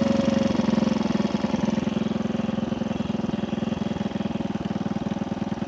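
1964 Honda C200's 90 cc single-cylinder four-stroke engine idling with an even, rapid putter, easing slightly over the first two seconds.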